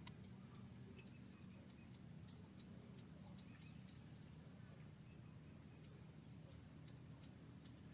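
Faint, steady high-pitched drone of insects, with a low rumble beneath and a single click right at the start.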